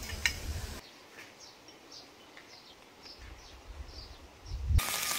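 A bird calling outdoors in a string of short, high, downward-sliding notes, about two or three a second, with wind rumbling on the microphone at times. Near the end it gives way to the steady hiss and bubbling of a pot boiling on a camp stove.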